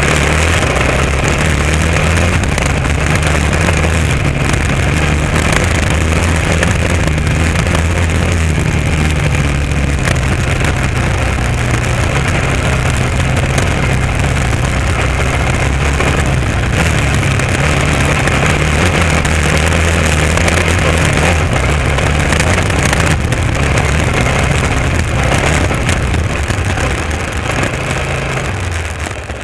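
Honda XR650R's single-cylinder four-stroke engine running at a steady cruise on a dirt road, heard close up from the bike itself. The engine note eases off slightly near the end.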